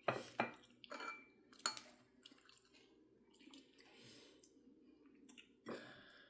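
Dishes and utensils clinking and knocking while food is handled: a few sharp knocks in the first two seconds and another near the end, with soft rustling between.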